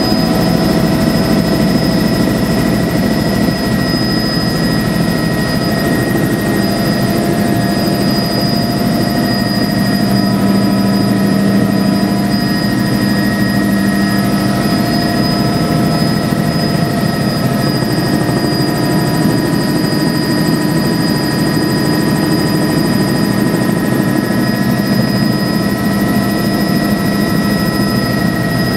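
Helicopter in flight, its rotor and engine running steadily with a constant high whine over a dense low rumble.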